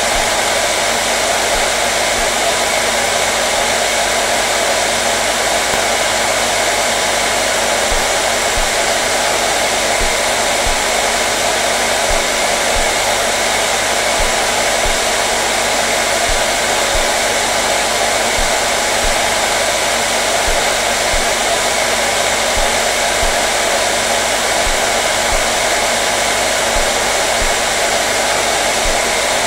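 Hair dryer running continuously at a steady speed: an even, unchanging rush of blowing air with a low motor hum underneath.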